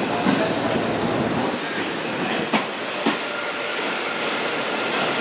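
Hanshin 5700 series electric train running, a steady rumble with a few sharp wheel clacks over rail joints. A faint steady high tone joins about three seconds in.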